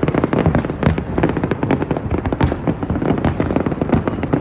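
Fireworks exploding in a rapid, dense barrage: many sharp bangs and crackles overlapping with no pause, the echo of each blast running into the next.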